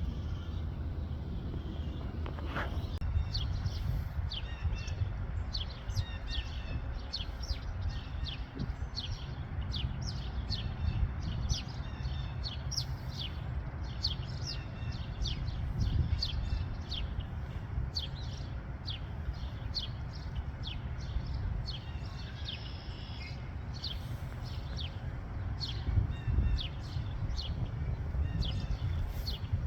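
Birds chirping: a long series of short, high chirps, about two a second, over a steady low rumble.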